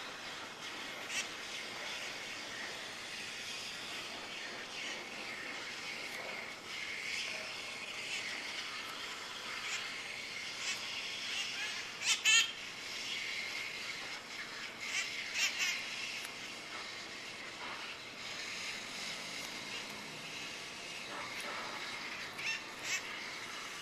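Flock of feral red-masked parakeets (cherry-headed conures) calling while they feed: steady chattering with loud, sharp squawks that stand out now and then, the loudest about halfway through.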